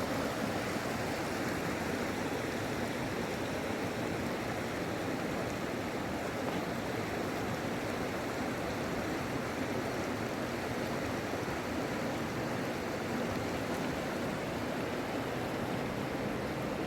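Steady rushing of a flooded river's water, a constant even noise with no breaks.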